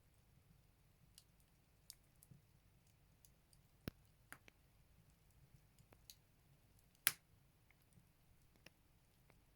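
Firewood burning in a Buleryan stove: faint, sparse crackles and pops at irregular moments, the sharpest about seven seconds in.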